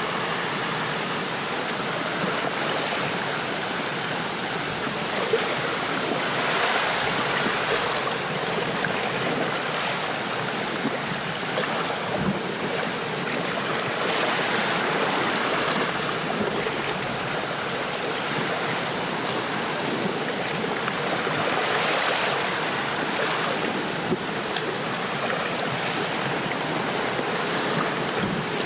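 Wind rustling through a lakeside reed bed with small waves lapping at the shore: a steady wash of noise that swells with gusts a few times.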